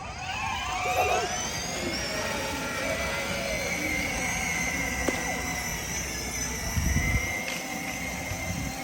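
Electric ride-on toy monster truck driving: its motor whines steadily at a high pitch over a low rumble from the wheels.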